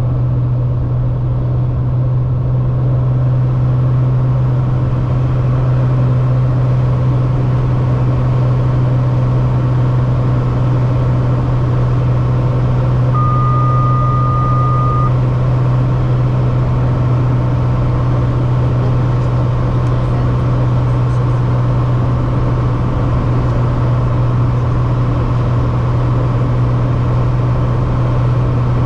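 Steady aircraft engine and cabin drone during the approach to landing. About 13 seconds in, a single steady electronic tone lasts about two seconds.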